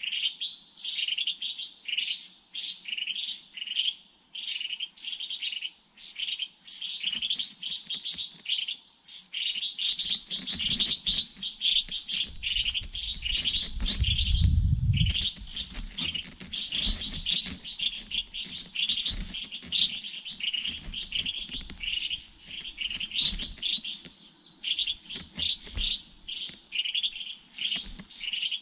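Small birds chirping steadily, short high calls repeated about twice a second. A low rumble comes in about ten seconds in and is loudest around halfway through.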